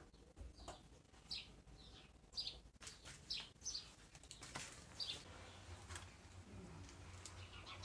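Small bird chirping: a series of short, high chirps, each falling in pitch, repeated irregularly about once a second.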